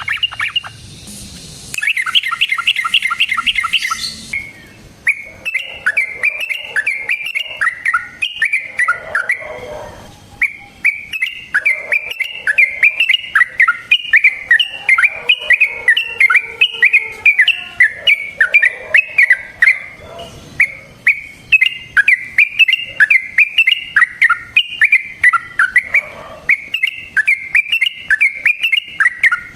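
Yellow-vented bulbul (trucukan) singing in long runs of rapid, bubbling chattering notes. A faster rattling trill comes in the first few seconds, and there are brief breaks about a third and two-thirds of the way through.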